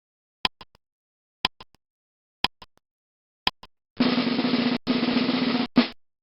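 Quiz timer sound effect: sharp ticks about once a second, then a loud rasping buzz about four seconds in that breaks off briefly twice before cutting out.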